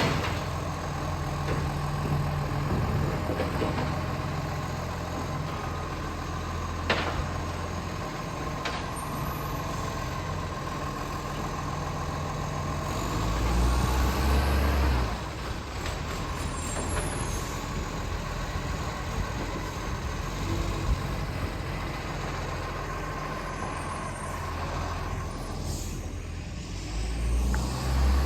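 Garbage truck's diesel engine running steadily, revving up briefly about halfway through and again near the end, with a couple of short sharp noises.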